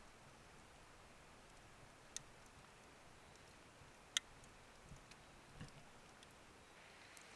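Near silence with a few sharp isolated ticks, two of them stand out, about two seconds in and, loudest, about four seconds in.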